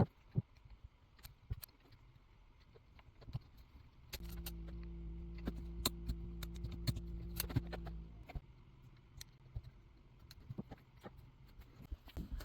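Small metal chainsaw parts and hand tools clinking and tapping during reassembly. A steady low hum runs for about four seconds in the middle.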